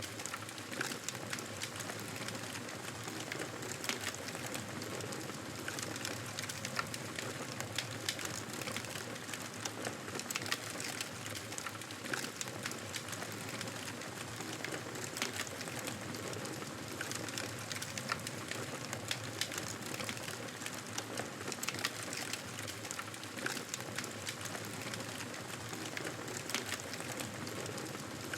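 Campfire burning: a constant stream of small sharp crackles and snaps from the burning wood over a steady hiss.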